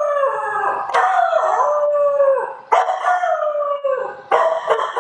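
A man's voice imitating a local Ghanaian dog: a series of long howling, whining cries, each starting sharply and sliding down in pitch, three or four in a row.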